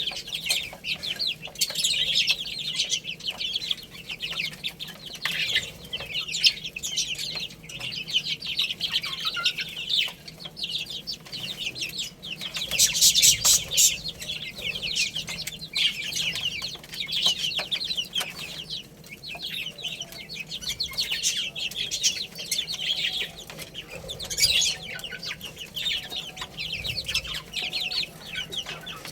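A brood of baby chicks peeping continuously, many high-pitched calls overlapping.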